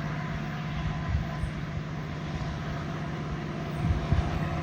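A train rolling past: a steady low drone and rumble, with a few heavier low thumps about a second in and again near the end.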